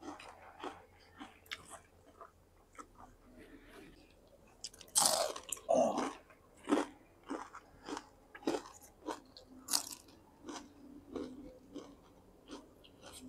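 Close-up mouth sounds of chewing and crunching fried crispy side dishes eaten with curd water rice: irregular short crunches, with the loudest crunching about five to six seconds in.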